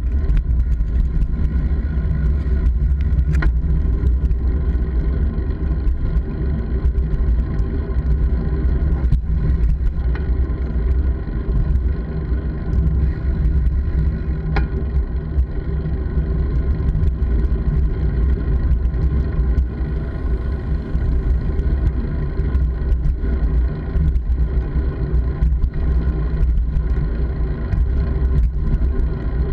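Steady rumble of wind and road noise on a camera carried by a rider, with scattered small knocks and rattles.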